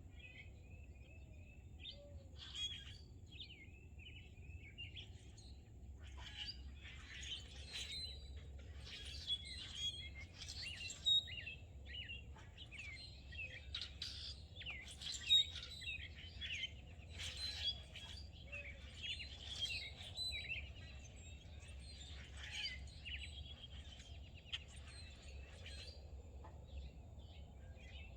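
Several songbirds chirping and singing at once, with overlapping short calls and trills that get busier about six seconds in, over a faint steady low hum.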